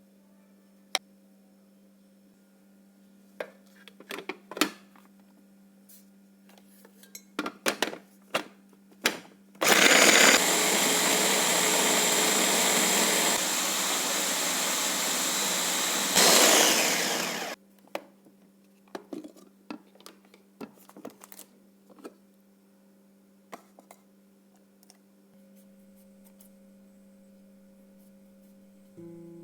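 Electric blender running for about eight seconds, surging near the end before it cuts off and winds down. Scattered clicks and knocks of handling come before and after it, over a low steady hum.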